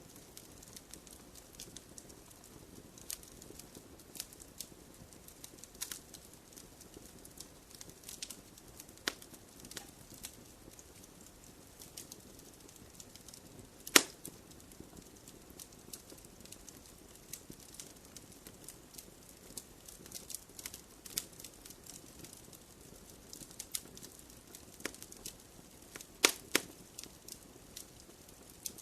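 Wood fire crackling in a fireplace: scattered sharp pops and snaps over a soft low hiss, with one loud pop about halfway through and a quick pair of pops near the end.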